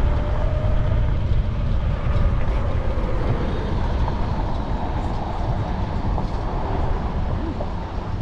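Steady rumbling road and wind noise from riding along in traffic, with a faint thin whine over it.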